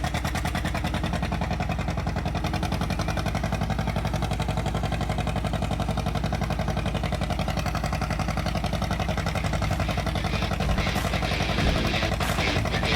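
Tractor engine running steadily, with an even, rapid firing pulse.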